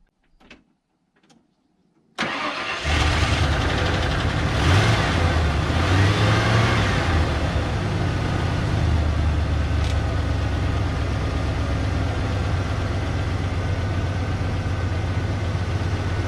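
1992 Ford F150's 302 V8 engine cranking briefly and firing up on the first try about two seconds in, revving up and down for a few seconds and then settling into a steady idle.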